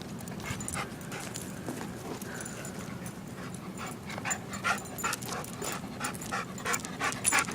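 Dog panting in quick, rhythmic breaths, about three or four a second, getting louder about halfway through, the heavy breathing of a dog between runs in a game of fetch.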